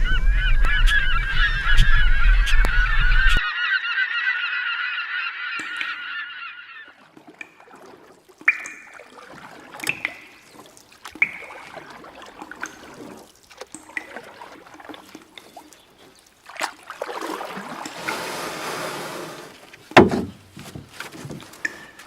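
A large flock of birds calls loudly together, many honking cries overlapping for the first several seconds. The chorus thins to scattered single calls. Near the end there is a rushing noise and one sharp knock.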